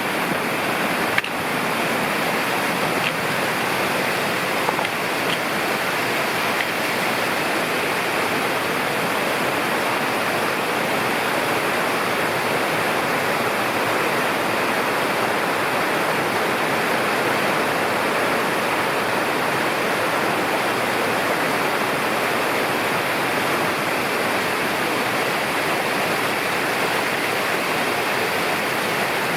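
Mountain river rushing over rocks, a steady, loud, even roar of water, with a sharp click about a second in.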